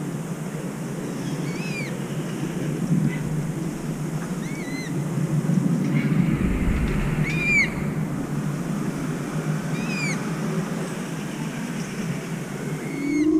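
A bird repeats short, arching calls, one roughly every second and a half, over a steady low background rumble.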